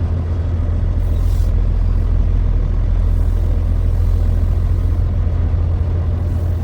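Steady low rumble of a heavy truck running, with a brief hiss about a second in.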